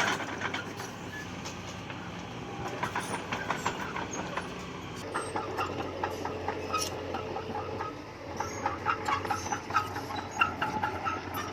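Bulldozer at work: a steady diesel engine hum under a rapid, irregular clatter of clanks and squeaks from its steel crawler tracks, which grows busier in the second half.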